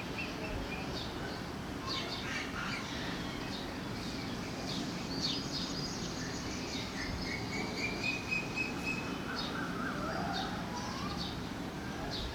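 Songbirds chirping and calling, with many short chirps and one long, slowly rising whistle about seven seconds in, over a steady low background noise.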